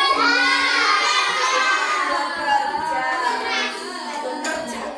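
Children's voices singing together, loud and sustained, with held notes that slide in pitch.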